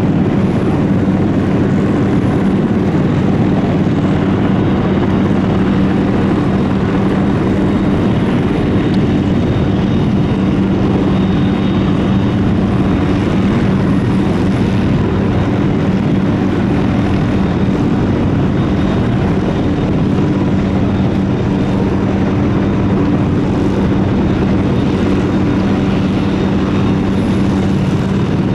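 Turboprop engines of a C-130 Hercules running steadily, with a constant loud propeller drone that holds the same pitch throughout.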